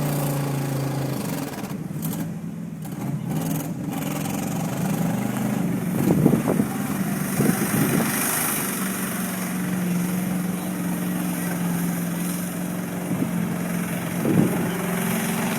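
Mud truck engine running, its pitch stepping up and down with the throttle, with a few brief louder bursts about midway and again near the end.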